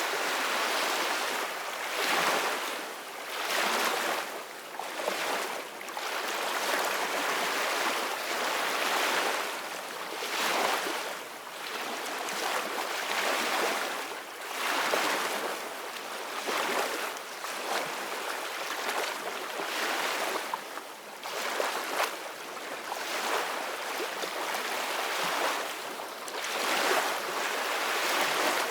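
Sea waves washing and splashing in repeated surges, one every couple of seconds, with little deep rumble.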